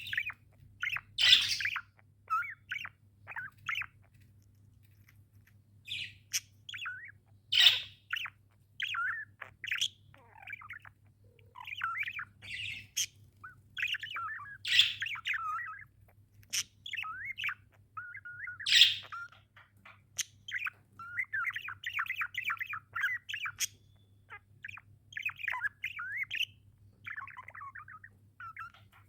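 A flock of pet budgerigars chirping and chattering in quick, overlapping warbles, with four louder sharp calls spread through and a stretch of rapid chatter past the middle.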